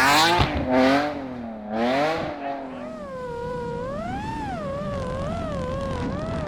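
Rally car engine revving hard, its pitch climbing twice in the first two seconds or so. It then settles into a quieter, steadier note that rises and falls with the throttle.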